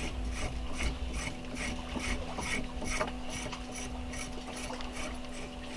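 Cinnamon bark being scraped by hand to strip off its dirty outer layer: rhythmic rasping strokes, about two to three a second.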